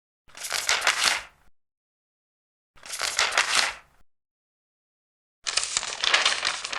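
Large paper pages being turned, three turns a couple of seconds apart, each a dry rustle of about a second with silence in between; the third turn is still going at the end.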